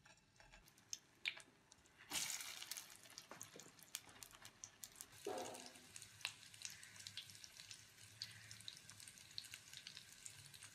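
Shami kababs, patties of minced mutton and chana dal, shallow-frying in oil in a nonstick pan. The faint sizzle surges sharply about two seconds in, then settles into a steady crackle with scattered pops.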